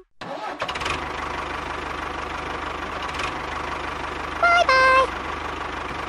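Tractor engine idling with a steady, fast, even chug. About four and a half seconds in, a horn gives two short honks, the second lower in pitch and a little longer.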